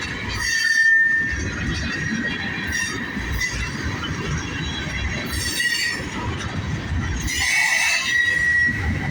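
Freight train cars rolling past with a steady rumble of wheels on rail and a thin, high wheel squeal throughout. Louder squeals flare up four times, the longest near the end.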